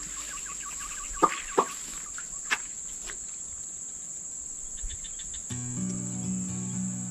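Insects keeping up a steady high whine, with quick chirps and three sharp clicks in the first few seconds. Background music with low sustained notes comes in about five and a half seconds in.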